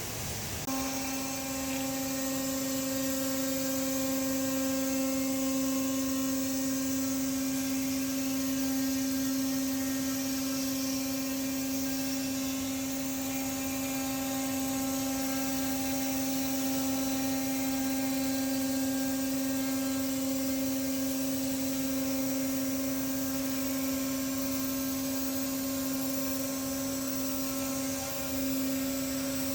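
Router spindle of an SM 1500R CNC wood-profiling machine running at steady speed: a steady whine with a clear pitch and overtones that starts just under a second in, dipping briefly near the end.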